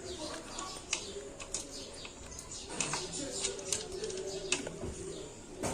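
Scattered light clicks and knocks of decorative stones being placed in a clay-pot fountain, over a faint low wavering tone.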